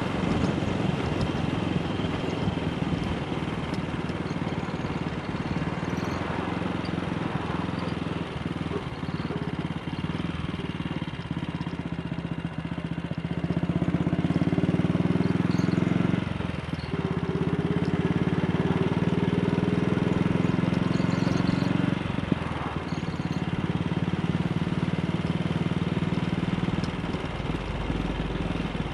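AJS Model 8 single-cylinder motorcycle engine running under way. It pulls louder for two stretches past the middle, each broken by a brief dip in level.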